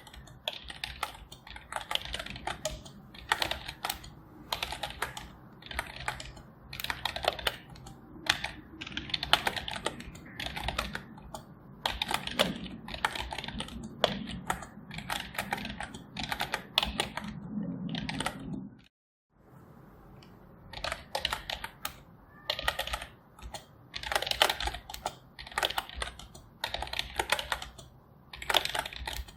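Computer keyboard being typed on continuously: a quick, irregular patter of key clicks, cut by a brief moment of total silence about two-thirds of the way through.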